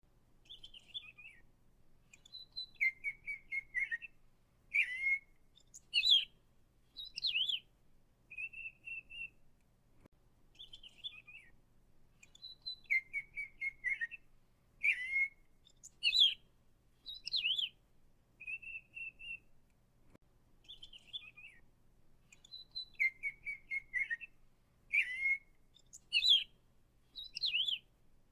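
Songbird chirping and whistling in short, varied notes, the same phrase sequence repeating three times about every ten seconds.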